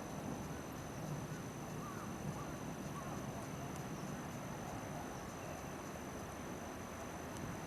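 Campfire burning with a steady low rush and occasional faint crackles, under a continuous high insect trill.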